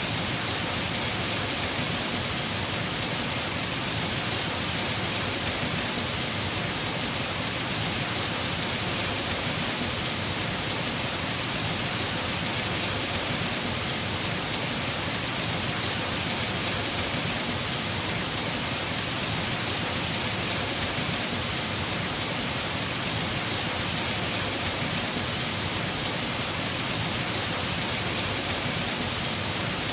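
Heavy rain falling steadily on a house roof, an even, unbroken hiss.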